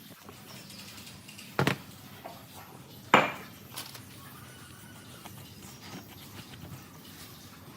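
Two sharp metal knocks about a second and a half apart, the second louder with a short ring, amid a few light clinks: metal parts or tools being handled and set down on a workbench.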